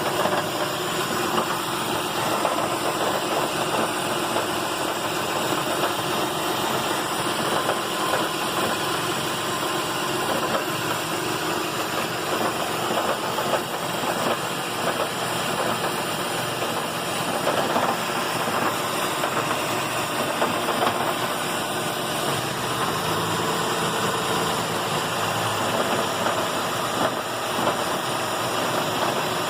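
Lexus RX 400h's 3.3-litre V6 petrol engine idling in Park with a steady rattle, running on until the hybrid system shuts it off. The rattle appeared after the spark plugs were changed; its cause is unknown.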